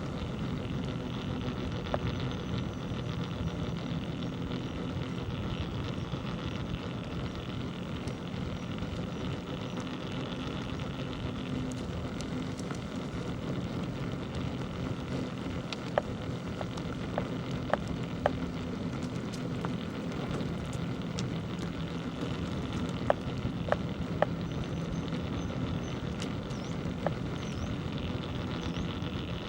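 Steady road and wind noise of a bicycle ride on a village road, with a scattering of sharp clicks or rattles, several about halfway through and a few more later.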